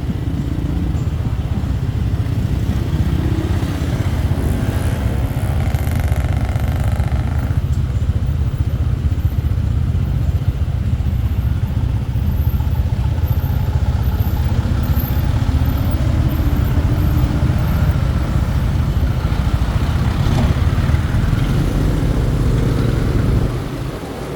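Motorbike being ridden along a road, its engine running steadily under a loud, continuous low rumble.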